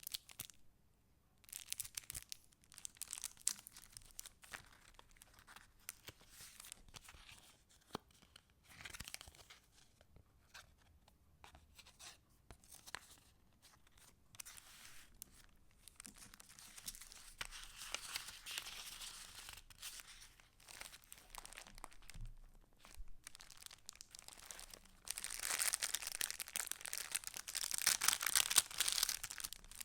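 Paper pages of a handmade junk journal rustling and crinkling as they are handled and turned, in irregular bursts with small clicks and taps. The longest and loudest rustling comes near the end.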